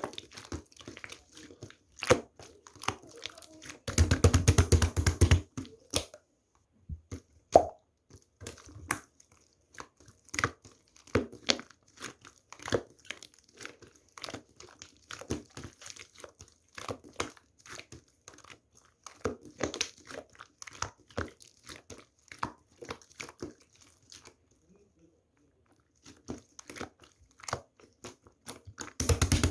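Close handling noises: scattered small clicks and crinkles, with a loud rustle about four seconds in lasting over a second, and another near the end.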